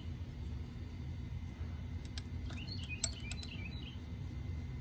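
Small birds chirping in short calls over a steady low background rumble, with a few light metal clicks of a wrench on the mower's oil drain plug about two and three seconds in.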